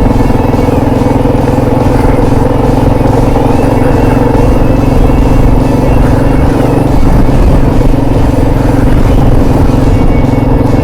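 Motorcycle engine running steadily while under way, holding an even speed with no sudden revs or stops.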